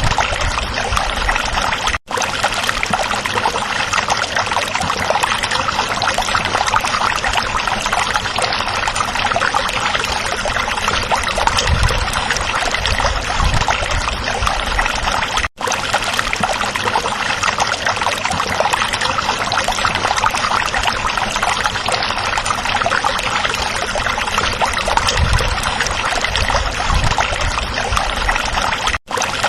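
Stream water running and trickling, a steady dense rush of water, broken three times by a split-second gap.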